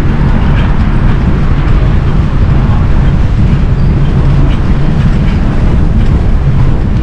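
Steady, loud wind rumble on the microphone of a moving bicycle, with no breaks.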